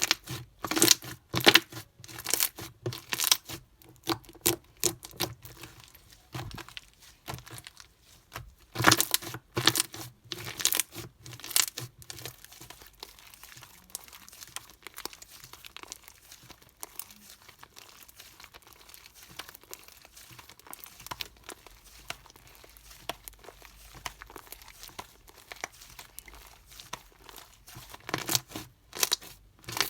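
Slime being worked by hand, stretched and pressed, giving clusters of sharp crackling pops and snaps in bursts near the start, about nine to twelve seconds in and near the end, with fainter crackling between.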